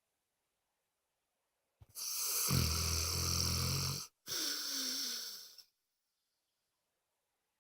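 Sleeping dog snoring: after a silent pause, one loud rattling snore lasting about two seconds, then a shorter breath with a faint falling whistle, then silence again.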